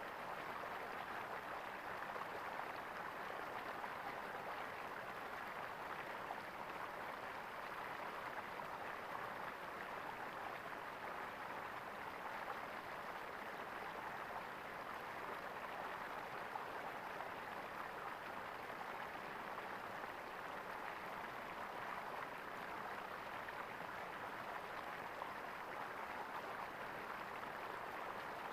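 Running water gurgling steadily.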